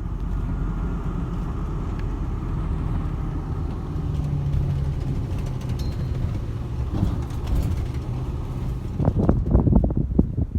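Strong wind rumbling on the microphone, a steady low roar that turns into irregular buffeting gusts near the end.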